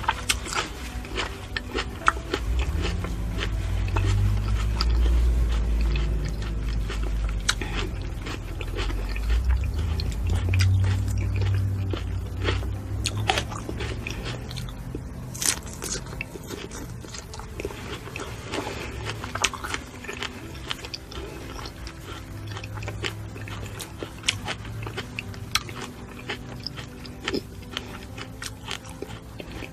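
Close-miked chewing and biting of juicy fresh fruit, such as strawberries, with frequent small wet mouth clicks and smacks. The chewing is louder and deeper during the first dozen seconds.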